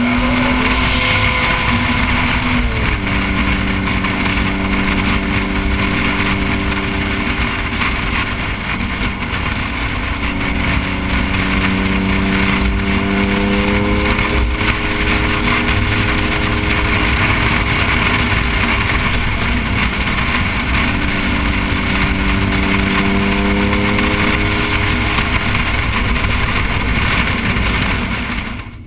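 Noble M400's twin-turbo 3.0-litre V6 running at a steady cruise under heavy wind and road noise. The engine note steps down once about three seconds in, then holds an even drone that rises and falls slightly.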